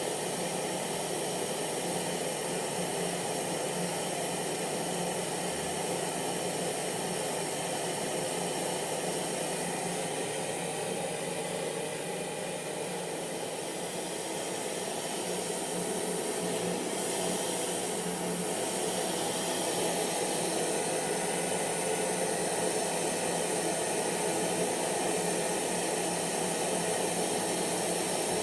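Electric hair dryer running steadily: a continuous rushing of blown air with its motor and fan hum, dipping slightly in level about halfway through.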